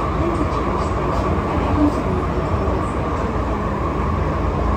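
Cabin noise of an MTR M-Train electric multiple unit on the move: a steady rumble of wheels on rail and running gear, with no marked change in level.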